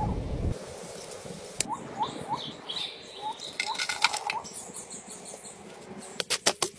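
A low rumble that cuts off about half a second in, then birds calling: a string of short rising chirps with higher twittering over them. A quick run of sharp knocks comes near the end.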